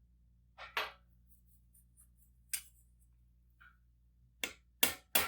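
A few light clinks of steel armour plate being handled, then near the end a hammer starts striking the steel plate, three sharp blows in quick succession. A faint low steady hum lies underneath.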